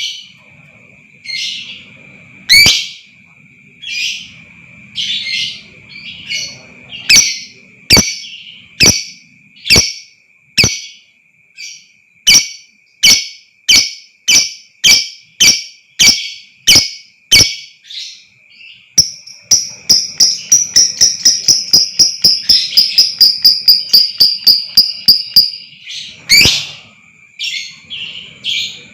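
Lovebird calling: sharp chirps about one a second, then from about two-thirds of the way in a fast rattling trill for several seconds, the long chatter ('ngekek') that the recording is meant to set off in other lovebirds. A steady high tone runs underneath.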